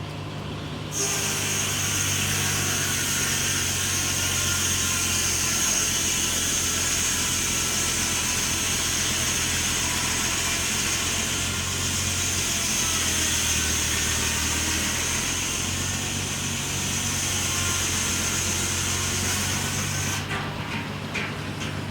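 An engine running steadily with a low hum, joined by a loud steady hiss with a thin high whistle in it that starts suddenly about a second in and cuts off near the end.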